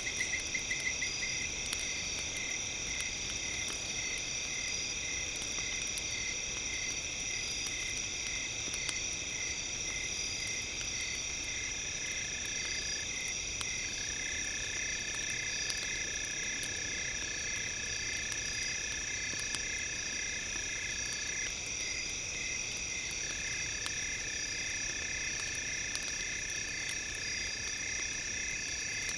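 Layered steady high-pitched tones with one tone pulsing about twice a second, insect-like, and a lower tone that drops out briefly twice. Faint crackles from the campfire sound that is mixed in are scattered through it.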